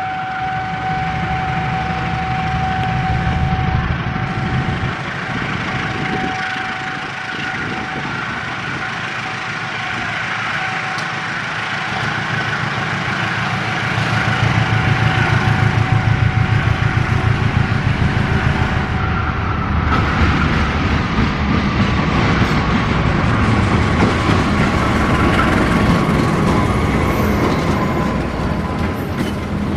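CC201 diesel-electric locomotive hauling passenger coaches slowly past, its engine rumble growing louder about halfway through, with a steady high tone over the first part. In the last third, wheels squeal on the rails as the coaches roll by, in a slowly falling pitch.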